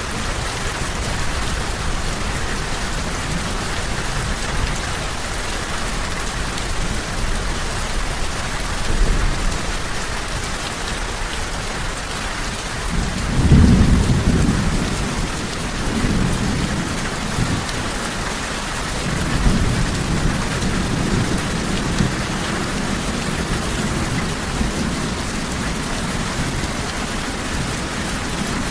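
Steady heavy rain falling, with low rolls of thunder swelling about halfway through and rumbling on after.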